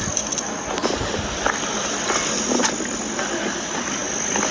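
Outdoor ambience: a steady rushing noise on a phone microphone, with a continuous high insect trill throughout and a few faint, brief distant voices.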